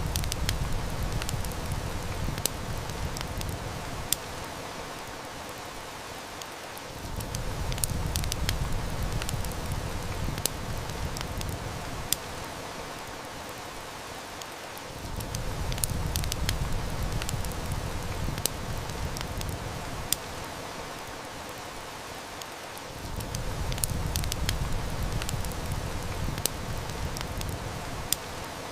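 Steady heavy rain with a wood fire crackling and snapping in scattered sharp pops. Under it, a low rumble of distant thunder swells and fades about every eight seconds.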